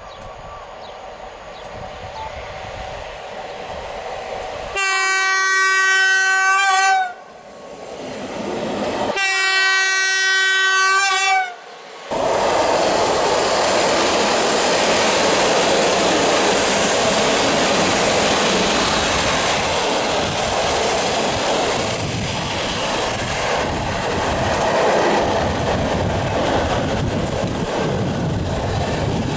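An EU07 electric locomotive approaching with a container freight train sounds its horn close by in two long blasts of about two seconds each: the Rp1 'attention' warning signal. The container wagons then roll past with a steady loud clatter of wheels on the rails.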